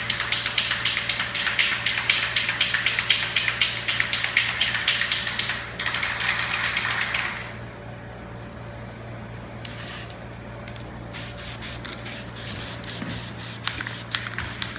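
Aerosol spray-paint can spraying the masked rim of a car AC vent: one long hissing spray of about seven seconds, then it stops. Shorter, quieter spurts follow near the end.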